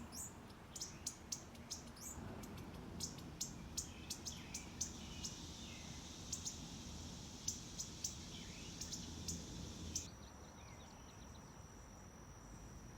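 Wild birds chirping: many short, sharp, high calls in quick succession over a high hiss. About ten seconds in, the chirps stop and a thin, steady high tone carries on alone.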